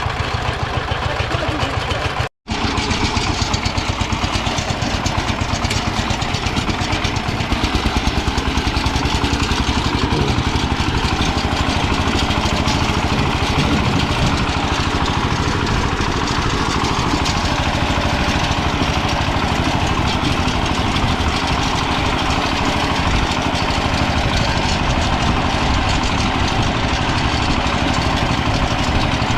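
Kentavr MB 1010DE-6 walk-behind tractor's diesel engine running steadily, pulling a potato digger. It cuts out for a split second about two seconds in.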